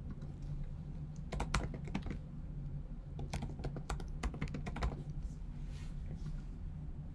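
Typing on a computer keyboard: a quick run of key clicks about a second in, and a longer run from about three to five seconds, over a low steady hum.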